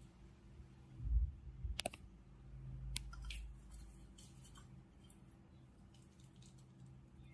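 Scattered sharp clicks and taps from a parrot bathing, over a low rumble that swells briefly about a second in.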